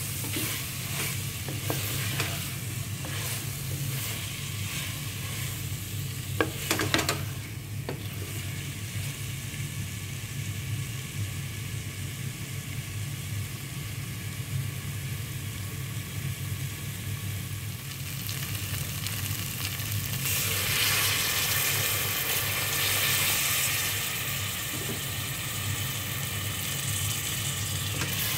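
Minced meat and potato pieces sizzling in an aluminium pot as they are stirred, the wooden spatula scraping and clicking against the pot's metal bottom. About two-thirds of the way in the sizzle turns louder and hissier as water goes into the hot pot.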